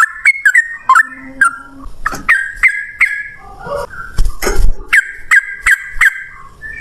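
Yellow-vented bulbul (trucukan) singing a fast, rolling run of sharp, clear notes, several a second, in the rapid 'ropel' style.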